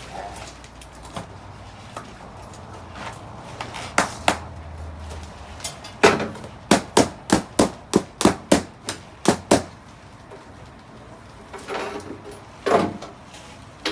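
Balloons popping inside a truck cab: a couple of single pops, then a quick run of about ten pops, about three a second, then a few more near the end.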